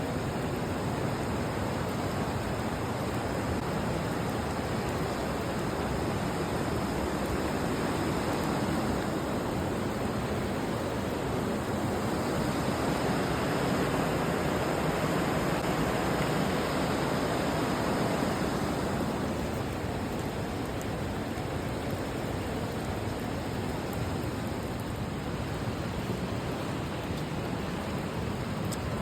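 River water rushing: a steady wash of noise that swells a little in the middle and eases back a few seconds later.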